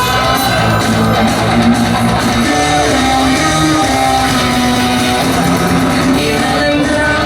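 Loud rock music led by guitars, playing continuously.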